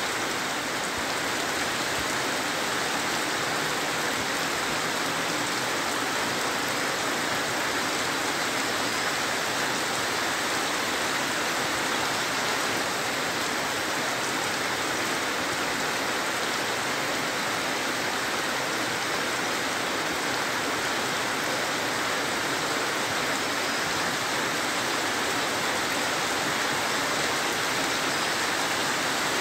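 Heavy rain falling steadily: an even hiss of drops splashing on wet ground and puddles.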